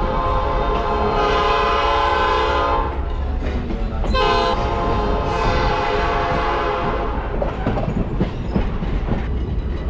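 Train horn sounding two long blasts, a chord of several steady tones, over the low rumble and clatter of the moving train.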